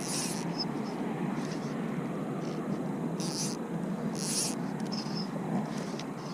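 Insects chirping in short high buzzes, three stronger ones near the start, about 3 seconds in and about 4 seconds in, with a few fainter chirps between, over a steady background hiss.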